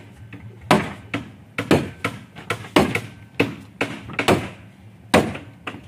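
A hand tool striking wood repeatedly in boat-building work, about ten sharp blows at an uneven pace of one or two a second.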